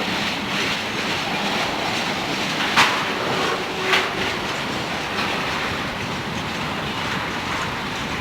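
Freight cars rolling past, wheels clicking over rail joints in a steady rhythm, with two sharp metallic bangs about three and four seconds in.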